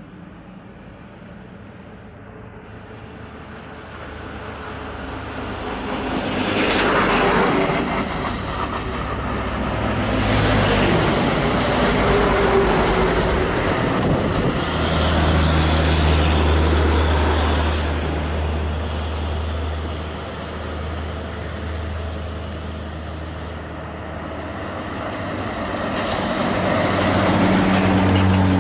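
Heavy diesel truck engine labouring uphill under load. It grows loud a few seconds in, then swells and eases several times with a deep steady drone, as trucks pull past.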